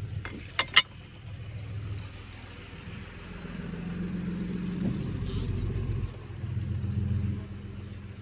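A motor vehicle's engine running, a low rumble that swells and fades over several seconds. Two sharp clicks come just under a second in.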